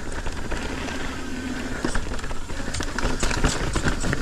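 Mountain bike rolling over loose, rocky ground: steady tyre noise with frequent rattles and clicks from the bike.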